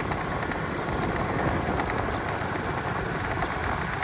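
Steady road noise of a moving vehicle, engine and tyres running with an even rush and no changes.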